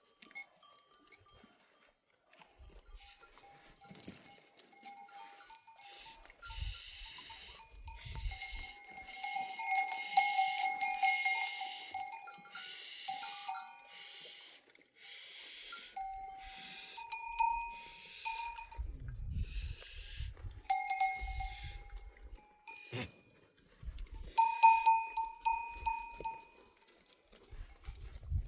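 Livestock bells on a herd of goats clanking and ringing irregularly as the animals move, loudest a few seconds in.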